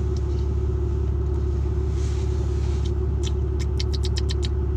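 Steady low rumble of a truck's engine running, heard inside the cab, with a steady hum above it. About three seconds in comes a quick run of light clicks.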